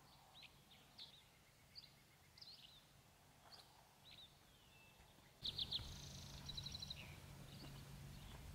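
Faint wild birdsong: scattered short chirps, then about five seconds in a louder bird call of quick repeated notes over a low steady hum.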